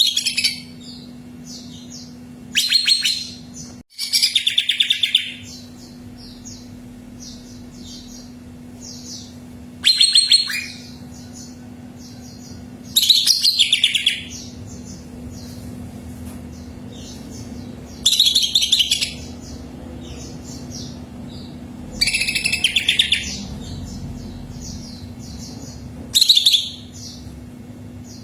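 Green leafbird (cucak ijo) singing loud, fast chattering phrases about a second long every few seconds, with softer high chirping between phrases. A steady low hum runs underneath.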